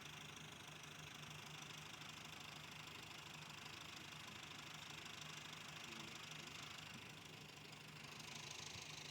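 Faint, steady engine hum with a constant low drone and no changes in speed.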